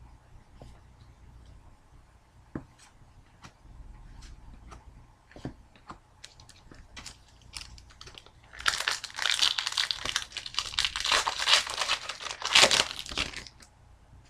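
A few light clicks and taps, then a few seconds of loud crinkling and tearing of a foil trading-card pack wrapper, starting about two-thirds of the way in.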